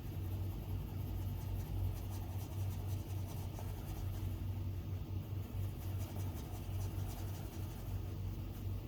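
Stylus strokes and light taps on an iPad's glass screen during drawing, a rapid run of small scratchy ticks that pauses briefly midway, over a steady low hum.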